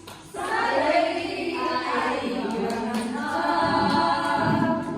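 A group of voices singing together, starting about a third of a second in.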